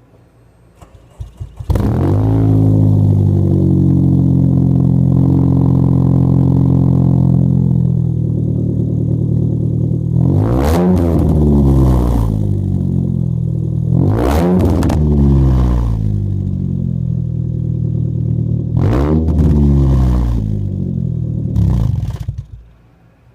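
2006 Nissan Sentra Spec V four-cylinder engine through an aftermarket header, midpipe and SRS cat-back exhaust, heard at the tailpipe: the starter cranks briefly, the engine catches on a cold start and runs at a high cold idle, is revved briefly three times, and is shut off near the end.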